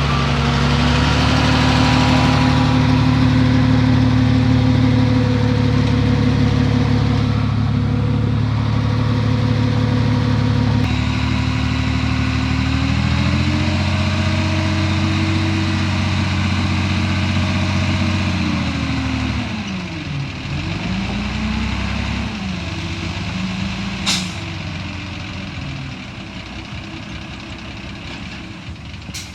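Heavy diesel earthmoving machinery engine running loud and steady, its pitch climbing a little past ten seconds in, holding, then dropping away near the twenty-second mark. A short, sharp hiss comes about two thirds of the way through, and another just before the end.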